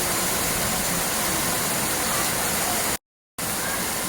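Steady rushing water, broken by a short dropout to silence about three seconds in.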